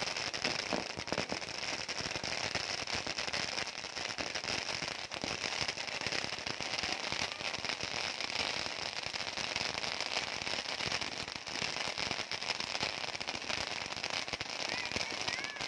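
Barrage of fireworks going off at close range: a dense, continuous crackling and popping of many rockets and fountains firing at once, without a break.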